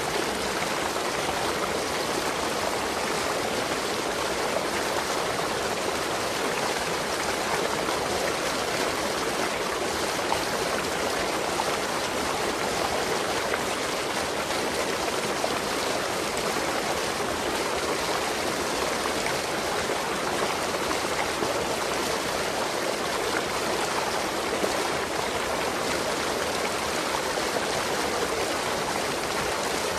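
Waterfall, water falling and rushing with a steady, even roar.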